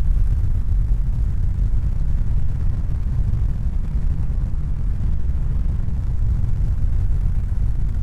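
A steady, deep rumbling noise with no clear pitch or rhythm.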